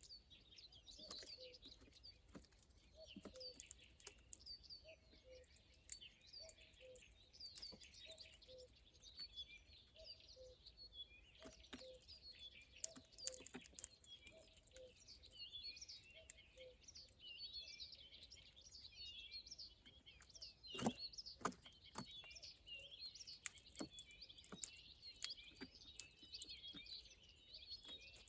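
Small songbirds chirping and twittering continuously, with a lower two-note call repeating steadily through the first half. A single sharp knock about 21 seconds in.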